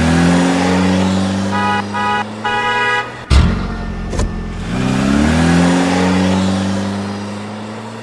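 Engine sound that revs up and then holds a steady pitch, twice, with a quick run of horn beeps about two seconds in and a sharp knock just after three seconds.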